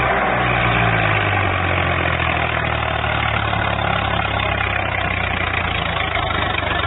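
Diesel tractor engine running steadily at a low, even speed.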